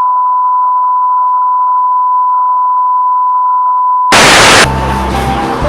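A steady, loud electronic beep tone held at one pitch for about four seconds, like a test tone. It cuts off into a brief burst of loud static, and music with a beat starts right after.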